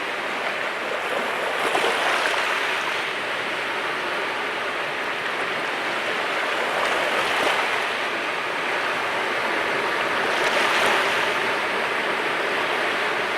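Mediterranean sea waves washing onto the shore in a steady rush. The surf swells three times as waves break, about five seconds apart.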